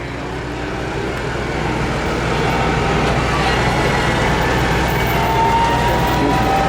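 Modified pulling lawn tractor's engine running, growing steadily louder with its pitch slowly rising.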